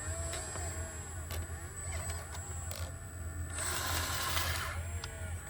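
Sumitomo SH120A3 hydraulic excavator working: its diesel engine runs with a steady low hum while the hydraulics whine, rising and falling as the arm moves. A burst of hissing noise comes about two-thirds of the way through.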